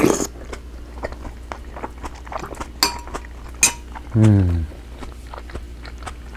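Eating at the table: quiet chewing and small clicks, with two sharp clinks of cutlery on a dish about three seconds in and a short, low voiced "mm" with falling pitch a little after four seconds.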